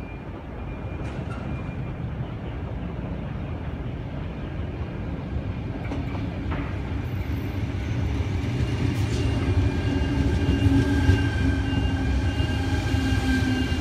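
Sydney Trains double-deck electric train pulling into a platform: a rumble of wheels on rail that grows louder as it approaches, with a steady electric whine joining about halfway through as it draws alongside and slows.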